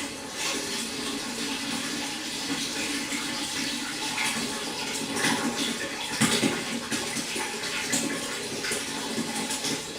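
Running water splashing steadily into a pond, with a few louder splashes around six seconds in.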